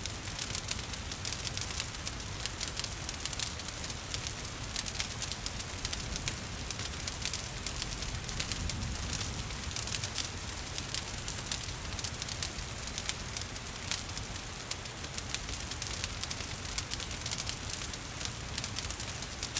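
Wood fire crackling steadily, with many small sharp pops and snaps over a low rumble, mixed with a soft hiss of falling rain.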